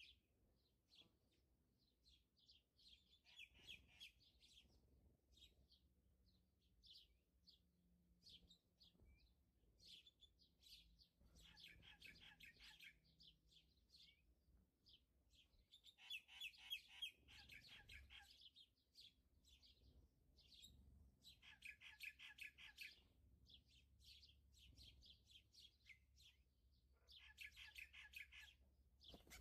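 Faint bird chirping, with short high chirps and, every few seconds, a longer run of rapid twittering trills.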